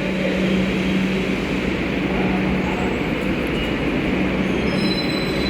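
Metro train at the station: a steady noise with a constant low hum, and a few faint high whining tones near the end.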